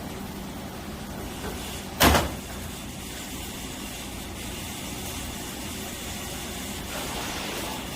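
A single loud thump or bang about two seconds in, over a steady low background hum.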